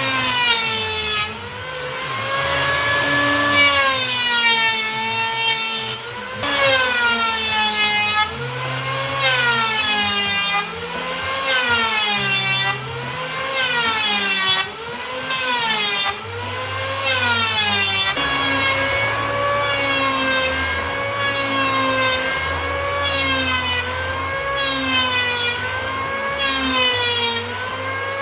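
Electric woodworking power tool cutting wood. Its motor pitch dips and recovers over and over, about once every two seconds, as each pass loads it.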